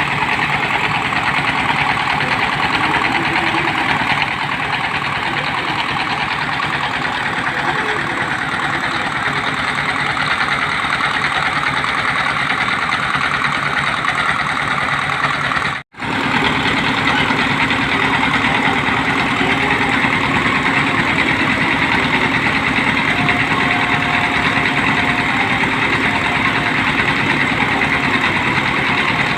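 Engine of a water-well drilling machine running steadily. The sound cuts out for a split second about halfway through, then resumes with a steady hum added.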